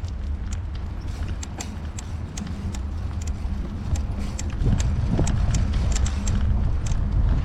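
Bicycle riding noise on a bike-mounted action camera: steady wind and road rumble with irregular sharp clicks and rattles. It grows louder about four and a half seconds in.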